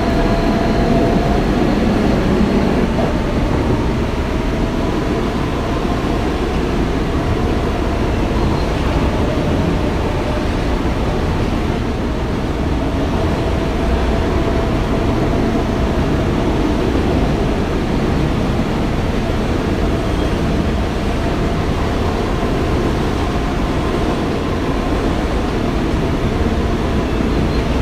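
Kawasaki R160B subway car with Siemens propulsion running at speed, heard from inside the car: a steady rumble of wheels on rail with a faint motor hum.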